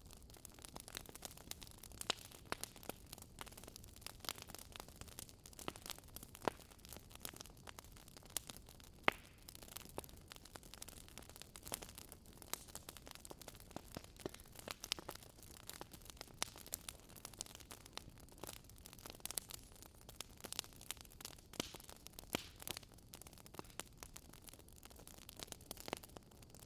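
Wood campfire crackling, with irregular sharp pops and snaps from the burning wood over a faint steady hiss.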